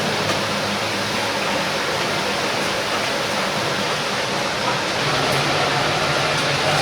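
Whole chicken deep-frying in hot oil: a steady sizzling hiss.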